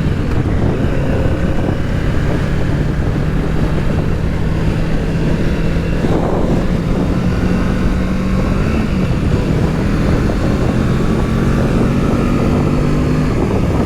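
Kawasaki Z650's parallel-twin engine running steadily under way, heard from the rider's camera with heavy wind rush. The engine note shifts about nine seconds in, then settles again.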